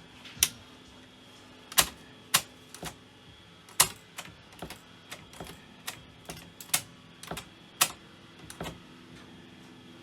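A run of irregular sharp clicks and light knocks, about two a second and unevenly spaced, over a faint steady hum.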